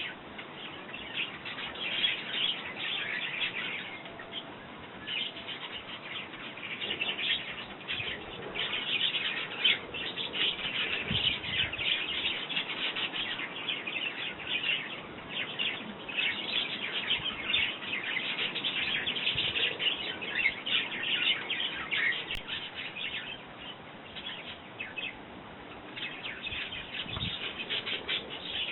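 Sparrows chirping continuously at a garden feeder, many short chirps overlapping with no pause.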